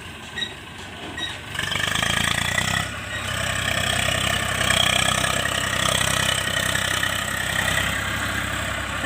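Tractor's diesel engine running steadily, getting louder about a second and a half in and staying up.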